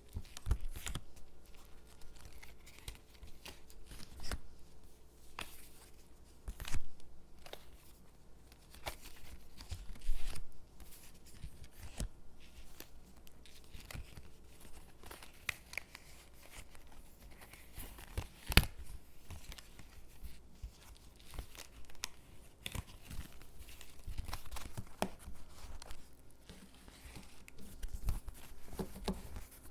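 Stickers being peeled from their backing sheet and pressed onto paper cutouts: soft peeling and crinkling of paper with irregular rustles and taps, a few of them sharper.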